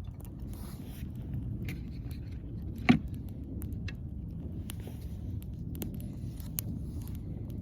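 Wood campfire crackling with scattered sharp pops, one loud pop about three seconds in, over a steady low rumble.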